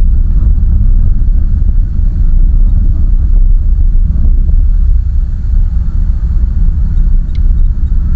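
Land Rover Freelander 1 Td4, with a BMW M47R four-cylinder turbodiesel, driving through snow: a loud, steady, low rumble of engine and road noise, with a faint click about seven seconds in.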